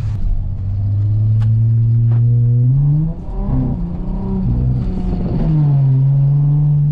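Chrysler 300 car engine pulling away and accelerating gently. The engine note climbs slowly for about three seconds, wavers up and down through a gear change, then settles into a steady drone.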